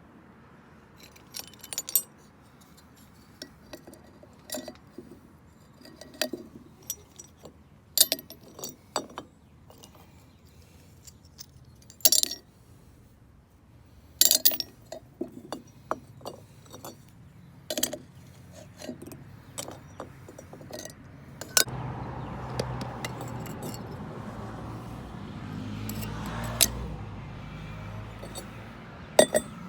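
Metal parts and tools being handled: irregular sharp clinks and knocks, one at a time or in short clusters. From a little past the two-thirds mark a steady rushing noise with a low hum comes in under them.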